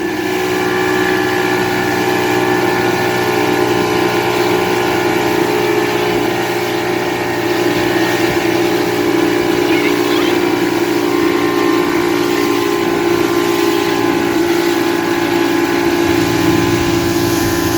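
Motorboat engine running steadily under way, a constant hum of several fixed tones over a broad rush of wind and water.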